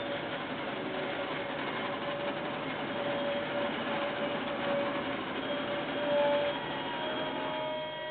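KiwiRail freight train of container wagons rolling past: steady running noise of wheels on rail, with a thin wavering whine through it that gains further high tones near the end.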